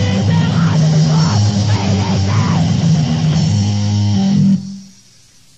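Loud, distorted punk band recording with heavy guitar and bass from a compilation cassette. The song stops abruptly about four and a half seconds in, leaving only faint tape hiss.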